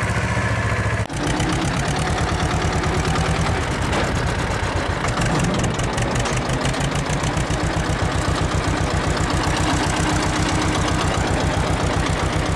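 Ursus C-330M tractor's two-cylinder diesel engine running at low revs, its firing pulses coming through as an even rhythmic chugging. The sound changes abruptly about a second in, as at an edit.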